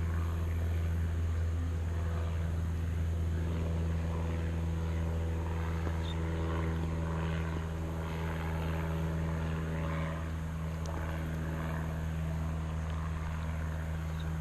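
A steady low motor drone holds one pitch throughout, easing slightly about ten seconds in.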